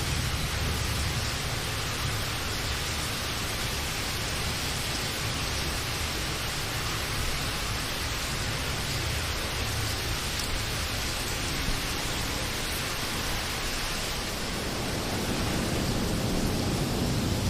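Steady rain falling, a constant hiss with a low rumble underneath that grows a little louder near the end.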